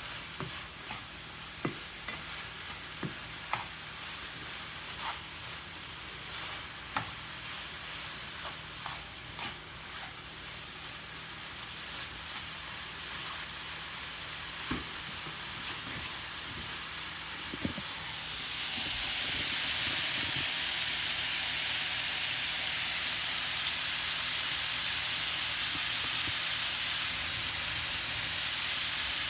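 Cauliflower fried rice frying in a pan, a steady sizzle with the sharp clicks and taps of a spatula stirring against the pan. About two-thirds of the way through the sizzle suddenly grows much louder and brighter and stays that way.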